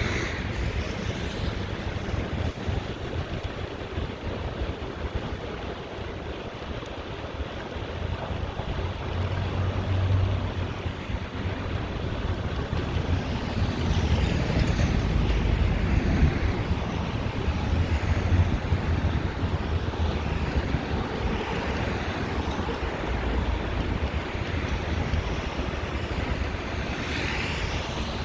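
Wind rushing over the microphone of a recorder on a moving bicycle, a steady low rumble and hiss, with road traffic swelling past a few times, most clearly about halfway through and again near the end.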